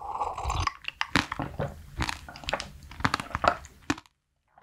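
Close-miked drinking from a glass, then chewing with many crisp clicking crunches. It cuts off to silence about four seconds in.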